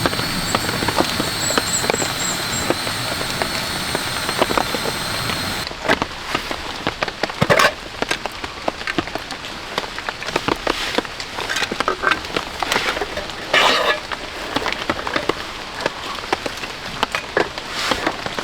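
Rain falling in a forest. For the first five and a half seconds it is a steady hiss with a faint high whine and a short run of high chirps; then it cuts to rain with many irregular drops ticking and splatting on a surface close by.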